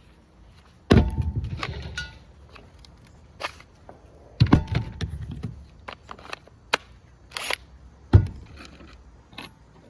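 Sharp knocks and rattling as wooden pieces and screws are handled and set in place: three loud knocks, about a second in, midway and near the end, with lighter clicks and clatter between.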